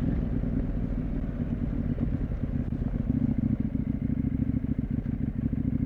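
CFMoto 800MT's parallel-twin engine running at a steady cruise, a low, even engine note with no gear change or rev rise.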